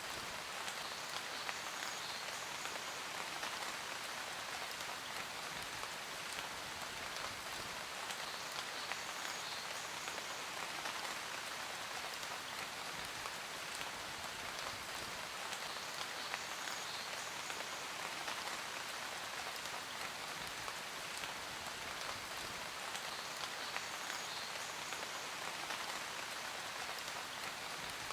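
Steady rain falling on hard surfaces: a dense, even patter with many fine drop ticks.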